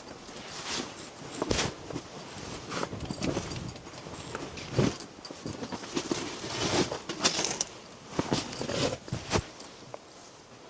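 Irregular knocks, clicks and rustles of things being moved and handled, about a dozen short sounds at uneven intervals, busiest in the second half.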